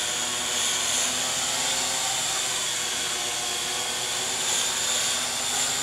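Syma X8C quadcopter's four brushed motors and propellers whining steadily as it hovers low, the pitch wavering slightly as the pilot adjusts the throttle.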